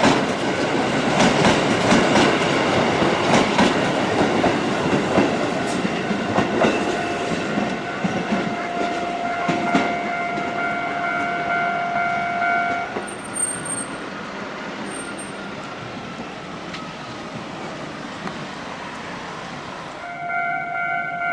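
A Kotoden electric train passes close by, its wheels clattering and clicking over the rail joints, loudest in the first half and then fading. Partway through, a steady ringing tone joins in and cuts off suddenly.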